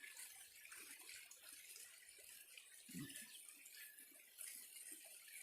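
Faint, steady rush of creek water, with one short low sound about three seconds in.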